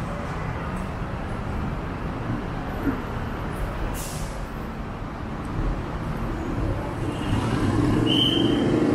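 Steady low rumble on an elevated Airport Rail Link platform as a train approaches, with a short hiss about four seconds in. The sound swells near the end, with a brief high squeal.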